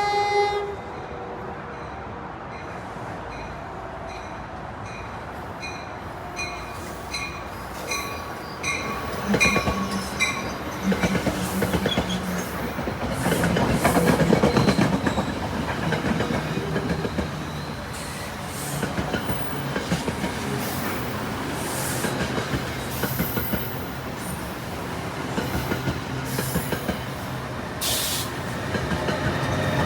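New Jersey Transit local train arriving: a short horn blast at the start, then a run of high pings about twice a second for several seconds. The train then rolls through with a rumble that peaks about halfway, clicking over rail joints, with high-pitched wheel squeal.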